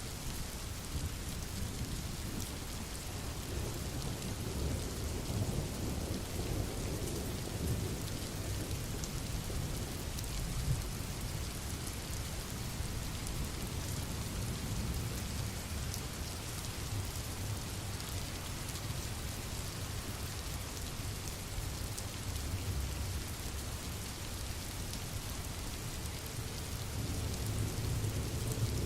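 Steady rain hissing, with a low rumble of distant thunder that swells and fades.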